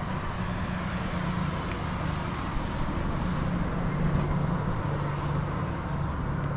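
A road vehicle driving: steady engine hum with road and tyre noise, the engine note shifting slightly partway through.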